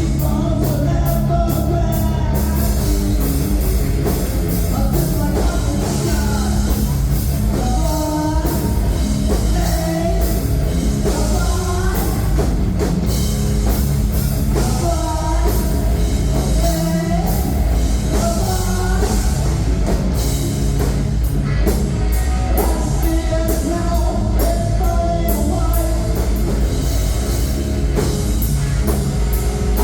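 A rock band playing live, loud and continuous: distorted electric guitars, bass and a drum kit, with a singer's voice over them.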